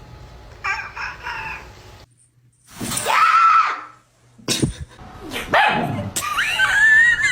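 A pet animal letting out a series of drawn-out, wavering cries, three or four in a row. The last cry stops abruptly.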